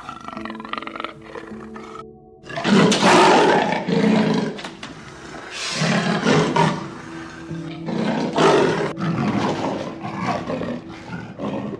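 Amur leopard growling in a series of loud, harsh bouts, each a second or so long, starting after a short break about two seconds in. Steady background music plays under it.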